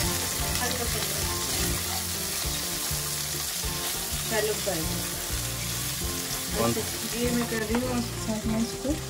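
Sliced potatoes frying in hot oil in a pan with onions and garlic: a steady sizzle, with background music underneath.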